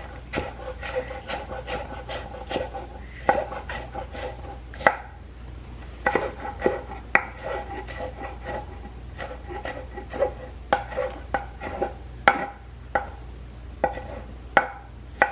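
Knife cutting an onion on a cutting board: irregular taps of the blade on the board, with scraping and rubbing between them.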